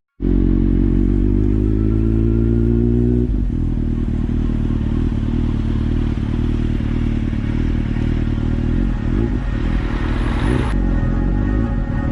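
Kawasaki Z750's inline-four engine running steadily on the move. The note changes about three seconds in.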